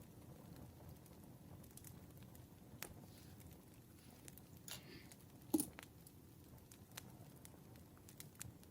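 Campfire crackling softly, with scattered small pops of burning wood and one louder pop a little past halfway.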